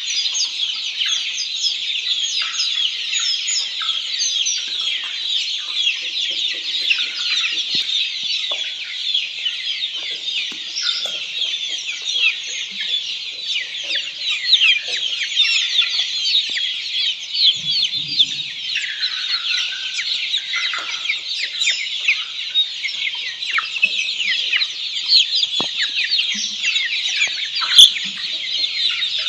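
A flock of black Australorp chicks peeping continuously: many short, high calls overlapping without a break. There is one sharp click near the end.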